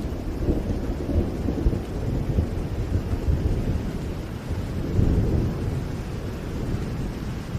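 Rain falling steadily with a continuous low rumble of thunder, which swells about five seconds in.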